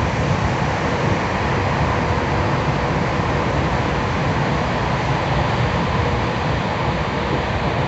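Tokyu 3000 series electric train running at steady speed, heard from inside the car: a continuous rumble of wheels on rail and running gear, with a faint steady whine from the motors and the Hitachi IGBT inverter drive.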